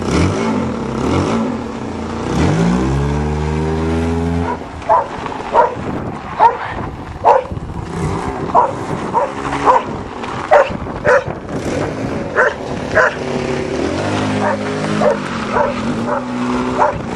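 1992 Toyota Corolla's engine revving hard under acceleration, its pitch climbing, then a dog barking over and over, about one bark every two-thirds of a second; the engine comes up again near the end.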